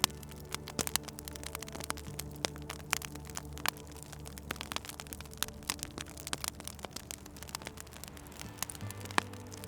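Wood fire crackling in a fireplace, with many sharp irregular pops and snaps. A low steady drone runs underneath and shifts pitch a few times.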